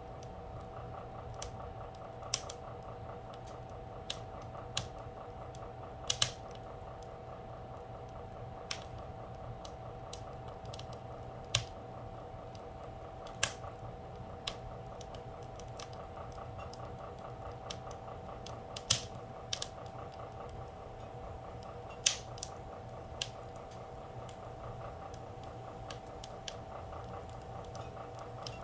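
Fire in a fireplace crackling, with sharp irregular pops every second or so, a few of them loud, over a steady hum.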